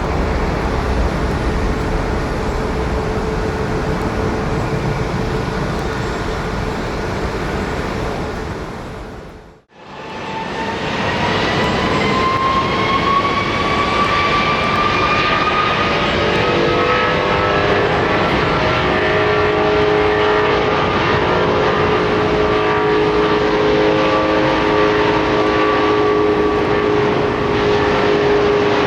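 Jet airliner engines: a steady rumbling rush with a faint hum that fades out about ten seconds in. After a brief dip to quiet, a rising whine comes in and settles into several steady whining tones over a broad engine roar.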